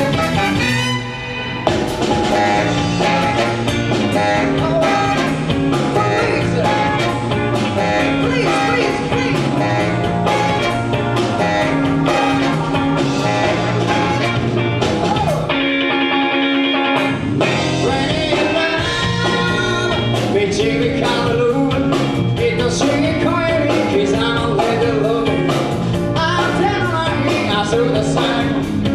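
Live band playing an upbeat number with drums, bass and singing. About halfway through, the band drops out briefly on a stop before coming back in.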